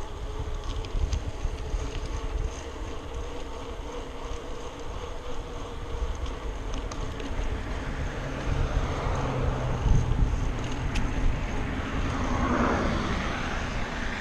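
Wind rumbling on the microphone while cycling, with a motor vehicle's engine growing louder in the second half and dropping in pitch near the end as it passes.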